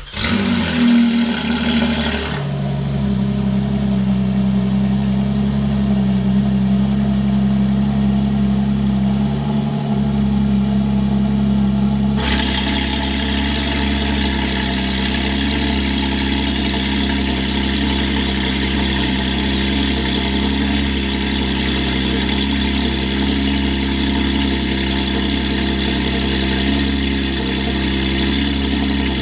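Porsche 992 GT3 RS's 4.0-litre flat-six starting through a full titanium exhaust, flaring briefly and settling into a steady idle. About twelve seconds in, the sound turns brighter and stays steady.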